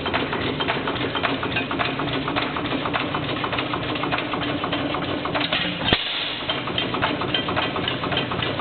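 1909–10 Racine Sta-Rite 6 hp hit-and-miss gas engine running steadily, with rapid mechanical clicking over a low hum and one sharper knock about six seconds in.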